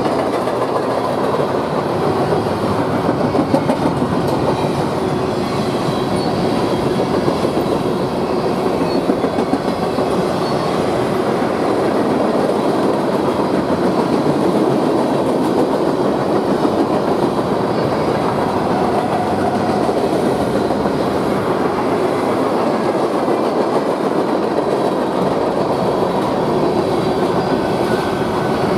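Freight train cars of a mixed manifest train rolling past at speed: a steady, loud noise of steel wheels running on the rails.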